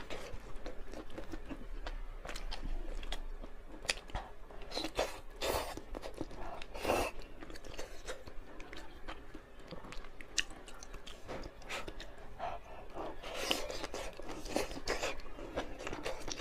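Close-up chewing of a mouthful of luosifen rice noodles and tofu skin, a run of irregular wet clicks and crunchy bites.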